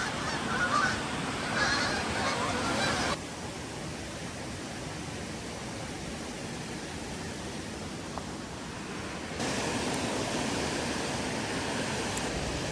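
Steady rushing of a flowing creek, its level jumping abruptly down about three seconds in and back up near the end. Over the first three seconds it carries irregular louder calls.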